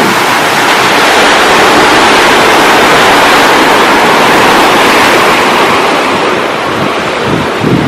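Sea surf breaking and washing in: one long, loud wash of waves that eases off near the end. Wind rumbles on the microphone near the end.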